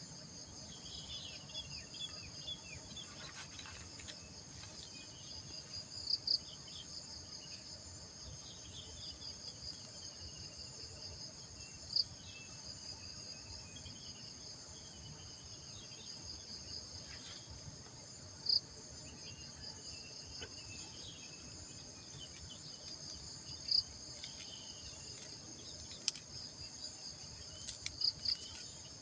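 Insects trilling steadily in a high-pitched chorus, with faint falling chirps repeating throughout and a few short, sharp chirps standing out every several seconds.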